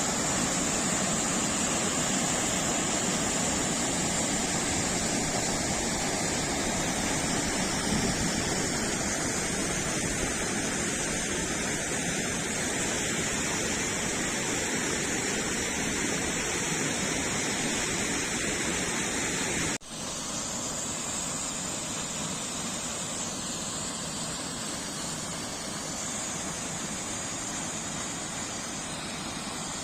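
Falling water rushing steadily, a dense continuous splashing hiss. It breaks off for an instant about two-thirds through and then carries on a little quieter.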